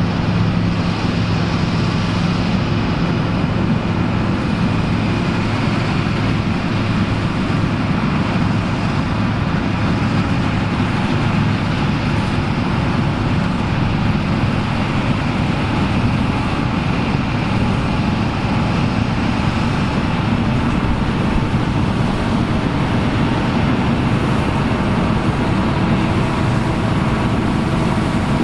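Engine of vintage farm harvest machinery running steadily, a constant low engine note with mechanical clatter over it.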